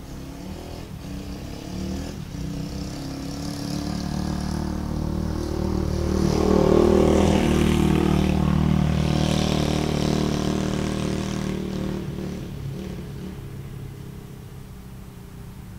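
Dirt bike engine running at a fairly steady pitch, growing louder to a peak about seven seconds in and then fading away, as when the bike comes close and rides off.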